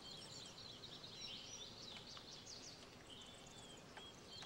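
Faint birds chirping: short high chirps and twitters, scattered irregularly over a quiet hiss.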